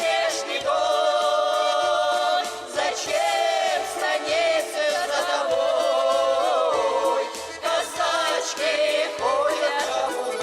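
A group of voices singing a Russian folk song in long, held notes with vibrato, over a steady low rhythmic accompaniment.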